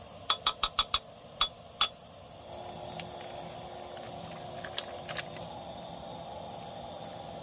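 A utensil clinking against cookware: five quick ringing taps, then two more about a second apart. A steady low hiss follows.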